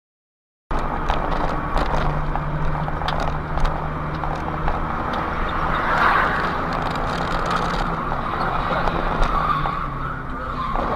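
Car engine and road noise as heard from a dash camera, starting abruptly about a second in and running steadily, with a low hum and a hiss that swells briefly about six seconds in.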